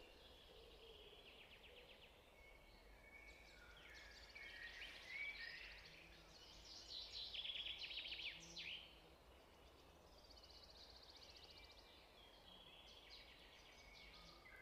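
Faint birdsong: a run of high chirps and fast trills, busiest and loudest in the middle, over a faint steady low hum.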